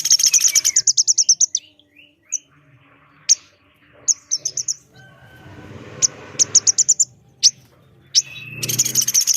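Recorded bird calls of a pelatuk beras woodpecker and a female korlap: fast, high-pitched rattling trills of sharp notes, separated by scattered single chips. One trill runs at the start, another comes about six seconds in, and a third begins near the end.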